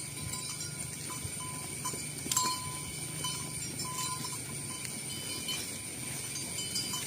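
A herd of cattle passing along a village road: low animal sounds over steady outdoor noise, with one short sharp knock about two and a half seconds in.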